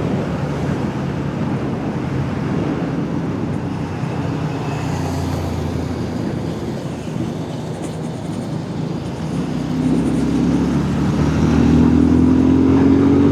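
Suzuki Gixxer 250 motorcycle engine running steadily while riding, with road and wind noise. Over the last few seconds the engine note climbs as the bike accelerates.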